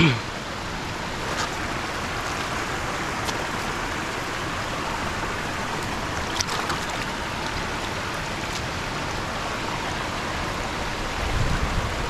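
Floodwater rushing steadily through a stream or channel after a night of heavy rain. A short sound falls sharply in pitch at the very start, and a low rumble comes in near the end.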